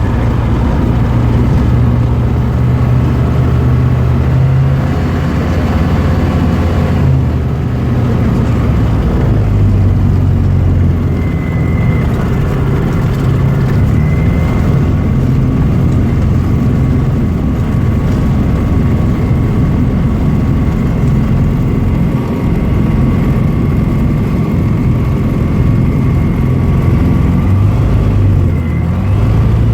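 Tecnam P92 Echo light aircraft's piston engine and propeller running steadily, the engine note shifting in pitch a few times as the throttle is moved.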